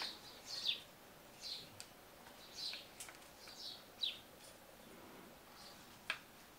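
A bird chirping: a series of short, high chirps that slide downward, about one a second, with a couple of sharp clicks between them.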